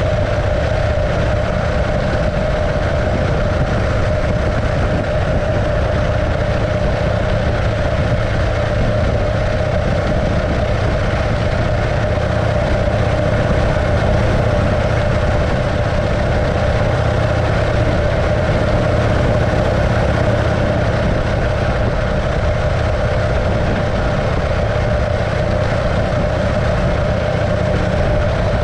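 Engine of a 1915 Arcade motorcycle, a 650cc JAP engine, running steadily at an even speed with no revving.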